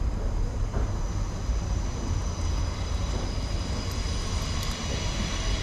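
London Underground train running, heard from inside the carriage: a steady low rumble with a faint high whine.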